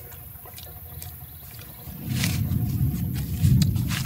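A man chewing grilled fish, with faint wet mouth clicks. About two seconds in, a loud low rumble starts and stays to the end.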